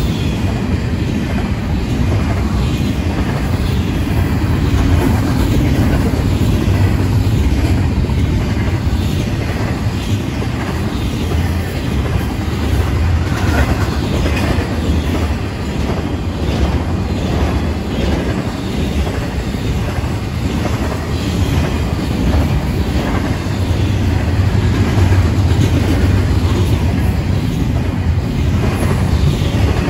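Intermodal freight train of double-stack container and trailer flatcars rolling past: a steady rumble of steel wheels on rail with regular clicking as the wheels cross rail joints.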